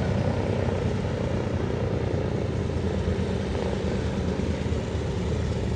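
Curtiss-Wright C-46F Commando's twin Pratt & Whitney R-2800 radial piston engines and propellers running steadily, a dense low drone with rapid pulsing that stays level throughout.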